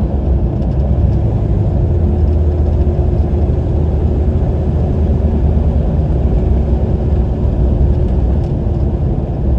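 Car driving at steady speed, heard from inside the cabin: a steady low rumble of engine and road noise.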